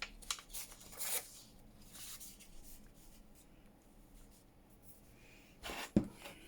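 Paper and card being handled on a craft table: light rustles and taps, with one louder knock near the end.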